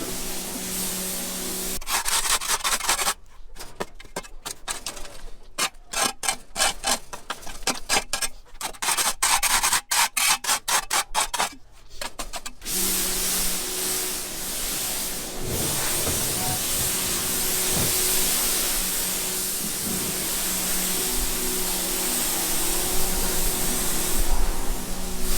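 Quick, rhythmic back-and-forth scrubbing strokes for about ten seconds. Before and after them, water sprays steadily with a low motor hum, as from a pressure washer; the spray stops near the start and resumes a little before the middle.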